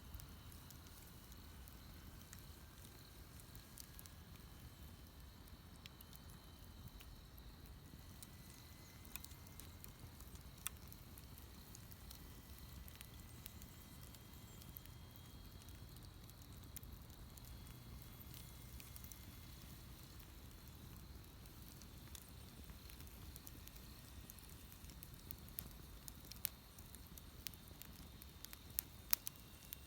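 Wood bonfire burning quietly, with sparse crackles and pops over a low steady rumble; the snaps come more often and sharper near the end.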